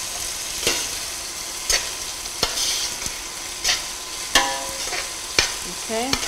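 Onions, mustard seeds, jeera and green chillies sizzling in hot oil in a stainless steel pot, with a metal ladle stirring and knocking against the pot about once a second.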